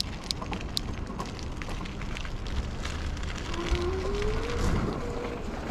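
Wind buffeting the microphone, a rumbling, crackling noise with scattered clicks. About halfway through, a faint tone rises in pitch for a second or two and then holds.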